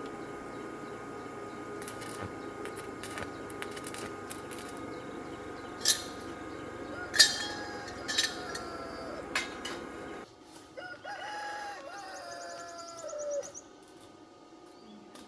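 A rooster crowing once, a drawn-out call of about three seconds near the end. Earlier come a few sharp knocks over a steady background noise, which cuts off abruptly about two-thirds of the way in.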